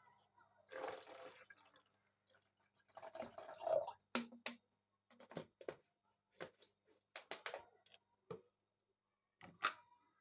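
Water running briefly from a tap twice, followed by a string of separate light knocks and clinks.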